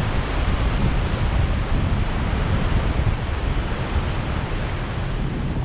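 Strong storm wind blowing and buffeting the microphone: a dense, steady rush with heavy low rumble.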